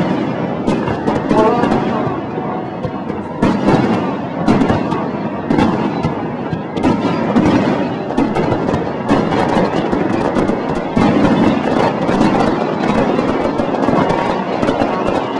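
Fireworks display: aerial shells bursting in many bangs in quick succession, several a second, overlapping one another.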